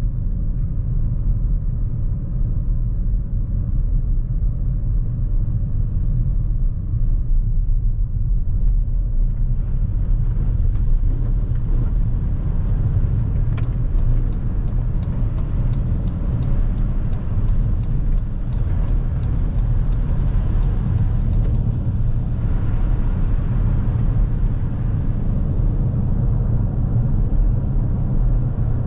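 Lexus NX350h hybrid SUV driving on a winter road: a steady low rumble of road and tyre noise. About ten seconds in, a brighter hiss joins it and stays, and a couple of sharp ticks come through.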